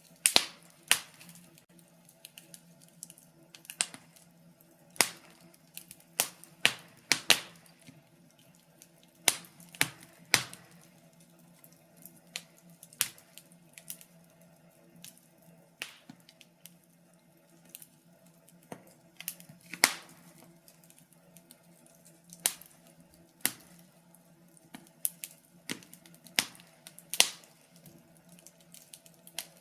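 Wood fire crackling: irregular sharp pops and snaps, bunched together at times and sparse at others, over a faint steady low hum.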